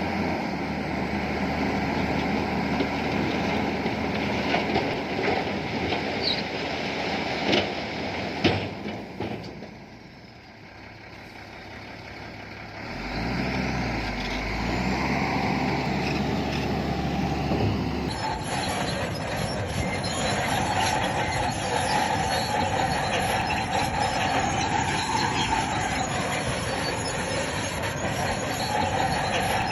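Bulldozer working: diesel engine running with its steel tracks clanking and squealing. The sound dips for a few seconds near the middle, then changes abruptly to a harsher squealing clatter.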